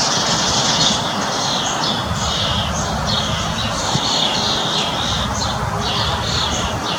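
A flock of small birds chirping and chattering nonstop over a steady low background rumble.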